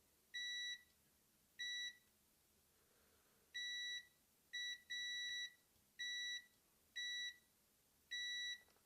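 Multimeter continuity tester beeping: about eight short, steady, high-pitched beeps at uneven intervals as the probes are touched to points on the circuit board while checking for shorts.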